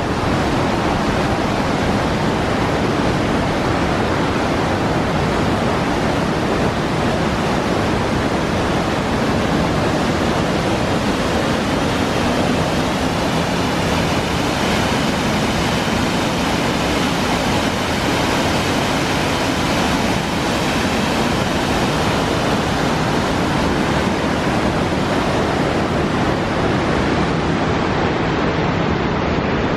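Waterfall pouring down into a deep rock gorge: a loud, steady rush of falling water with no let-up.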